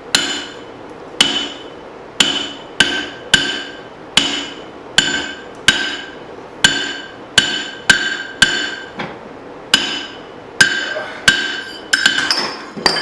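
Hand hammer striking a steel hatchet head on an anvil, about twenty blows at an uneven pace that quickens near the end, each blow ringing. These are straightening blows on steel that is cooling off.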